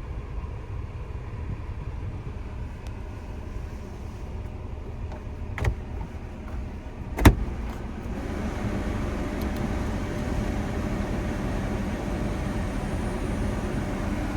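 Subaru Sambar truck running with a low steady rumble; a light click and then a sharp loud click come about halfway through, after which a fan starts blowing steadily with a faint whine over the engine.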